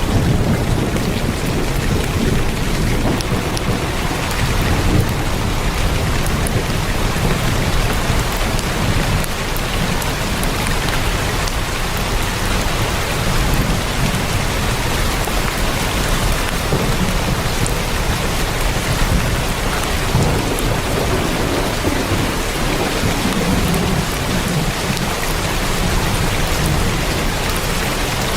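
Heavy rain drumming steadily on a tin roof, a dense even patter with scattered sharper drop ticks and a low rumble underneath.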